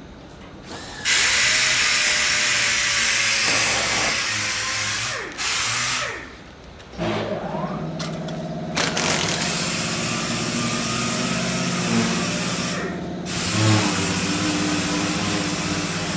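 A power tool runs in several bursts with a loud high hiss. From about halfway through, a steady pitched machine hum runs under it.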